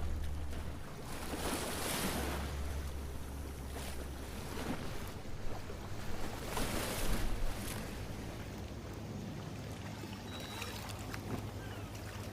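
Boat engine rumbling on the water with water sloshing, swelling twice, and a few short chirps near the end.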